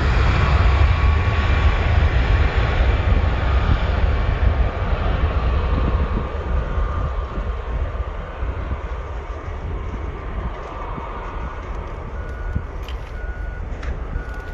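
Jet engines of an Airbus A320-211 (CFM56 turbofans) rumbling loudly, then fading away over several seconds. Near the end a vehicle's reversing beeper sounds about once a second.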